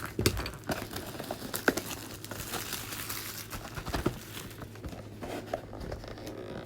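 Plastic wrapping of a trading card mega box crinkling and tearing as the box is opened, with small crackles and clicks throughout.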